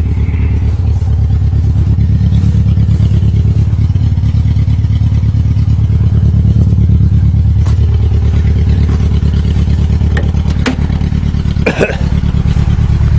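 A 1994 Geo Tracker's four-cylinder engine running at a steady idle just after a cold start; the owner believes it has bad compression on one cylinder. A few sharp knocks come near the end.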